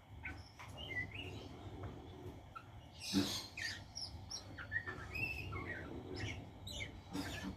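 White-rumped shama (murai batu) singing: a run of varied short whistled phrases and chirps, with a louder noisy burst about three seconds in.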